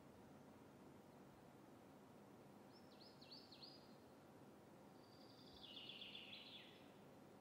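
Near silence with a faint bird calling: four quick, high, downward-sweeping chirps about three seconds in, then a short twittering trill near the end.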